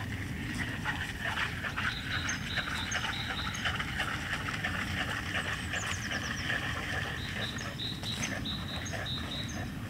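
Small birds chirping, short high notes repeated again and again, with a quick falling trill about six seconds in, over a steady low background rumble.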